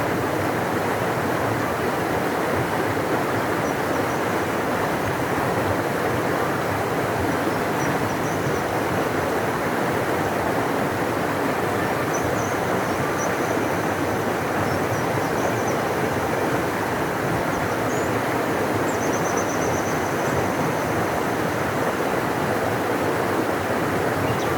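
A large river rushing steadily, a deep even wash of water noise with no change in level. A few faint high chirps come and go over it.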